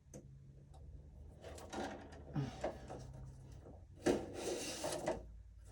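Plastic outer jacket of an electrical cable being scored with a knife and worked off the wires: faint rubbing and scraping, with a louder stretch of scraping about four seconds in.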